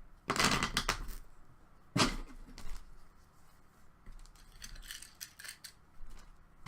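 Hockey card packs and cards being handled: a short rustle about half a second in, a sharper snap at about two seconds, then light scattered clicks and slides of card stock.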